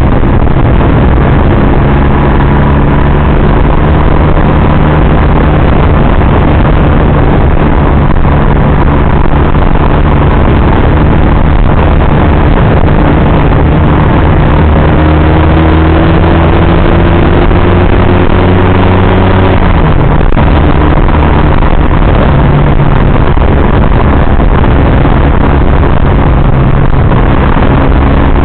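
Motorcycle engine running under way, loud and steady over a dense rush of noise; its pitch creeps slowly upward, then drops sharply about twenty seconds in and settles again.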